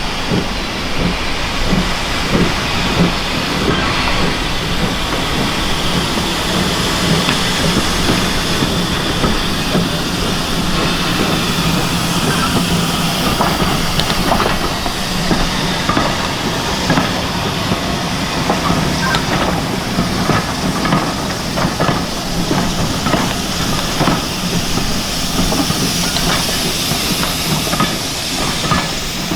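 Steam locomotive and train on the move: a steady hiss of steam over the rumble of the train, with a run of short sharp clicks and rattles from about halfway on.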